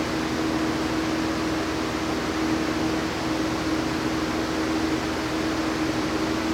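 Stick welding arc on cast iron with Certanium 889 nickel rods, a steady hiss and crackle, over a steady low hum.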